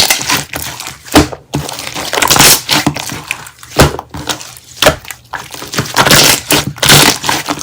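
Slime being squeezed and pressed by hand, giving irregular crunching and crackling bursts.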